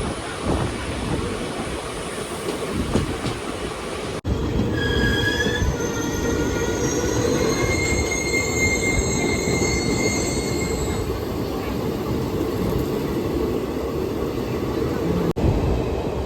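A train rolling along the rails, with its wheels squealing in several high tones from about five to eleven seconds in.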